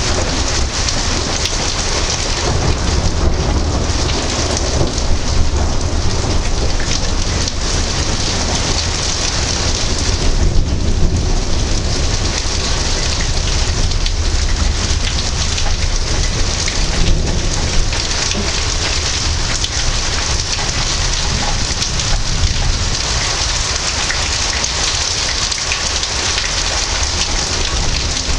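Heavy thunderstorm rain falling steadily on surfaces, with a low rumble of thunder underneath that swells briefly about ten seconds in.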